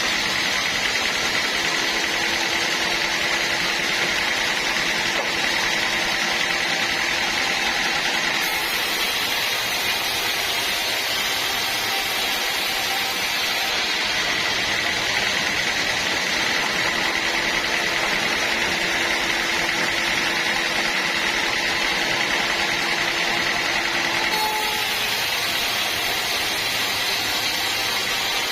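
Sawmill machinery running steadily: a continuous mechanical noise with a steady high whine.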